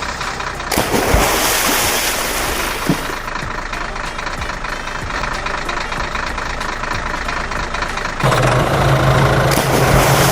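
Vehicle engine running. About eight seconds in, a louder, steady low idling engine hum cuts in.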